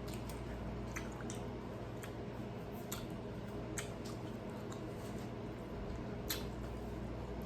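Close-miked eating sounds: soft wet chewing with a handful of sharp mouth clicks, over a steady low hum.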